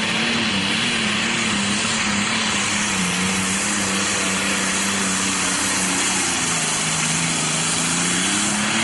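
Turbocharged diesel Pro Stock pulling tractor under full load dragging the sled, engine running hard with its note sagging slowly as the load builds and picking up again near the end, with a steady high whistle over it.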